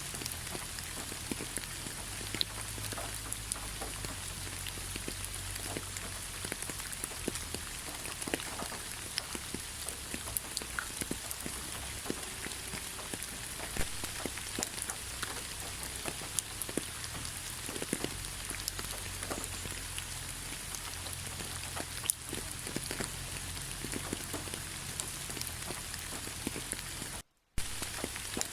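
Steady rain falling, with many separate drops ticking close by. The sound cuts out for a moment near the end, then resumes.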